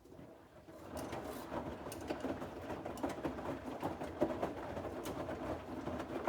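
Bosch WAX32GH4GB washing machine drum turning for a few seconds during the wash, motor running and laundry tumbling with a dense clatter of small knocks. It builds up over the first second and stops near the end.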